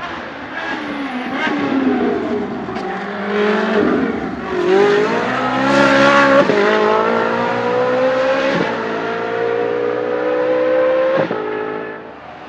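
Ferrari 458 Challenge Evolution's V8 race engine revving up and down, then accelerating hard through the gears. There are three quick upshifts; the pitch drops sharply at each and climbs again.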